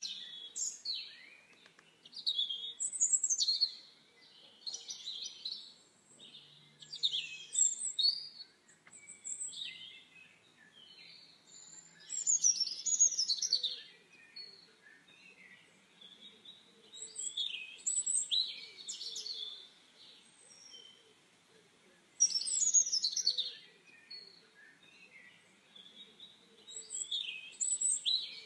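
Small birds chirping and singing in high, quick phrases of a second or two, repeated every few seconds.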